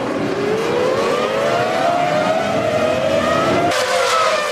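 Formula One cars' V10 engines at high revs, several engine notes overlapping and rising and falling as the cars accelerate and brake. The sound shifts abruptly near the end.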